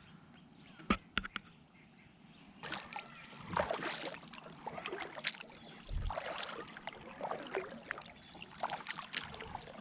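Kayak on the water: irregular paddle strokes splashing and dripping, with a couple of sharp knocks on the hull about a second in. A steady high-pitched whine runs underneath.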